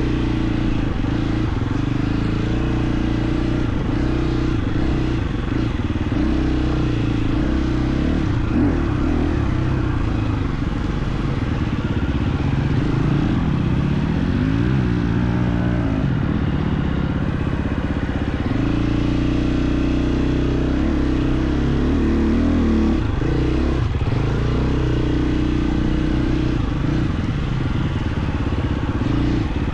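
KTM 350 XC-F single-cylinder four-stroke dirt bike engine running while being ridden, its pitch rising and falling with the throttle. It eases off about halfway through, then picks up again.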